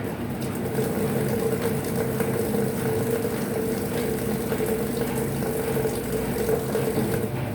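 Electrolux LF75 washing machine mid-cycle: a steady electric hum with water running and splashing, starting right at the beginning and cutting off shortly before the end.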